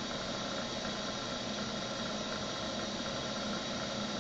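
Steady machine hum with a hiss from shop machinery, even and unchanging with no knocks or cutting sounds.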